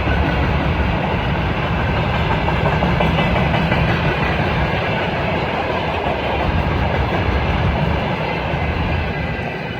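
A freight train's wagons rolling past close by: a steady heavy rumble of steel wheels on the rails with clickety-clack from the rail joints, starting to fade near the end as the train draws away.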